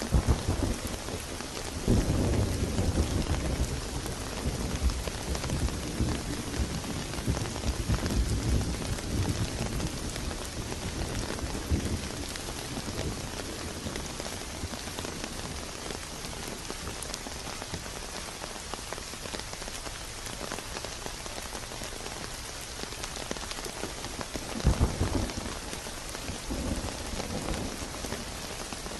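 Steady rain falling, with thunder rumbling low beneath it: a long roll in the first half and a shorter one near the end.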